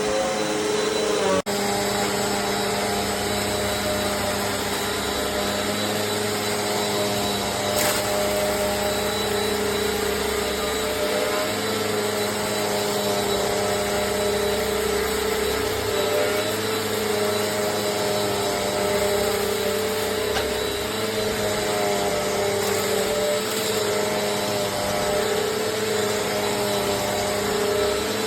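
Amazon Basics upright bagless vacuum cleaner's motor running steadily, with a steady whine and slight wavering in pitch; a brief break about a second and a half in.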